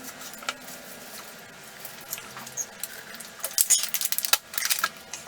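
Close-up eating sounds: wet chewing clicks and lip smacks, sparse at first and busier for the last couple of seconds.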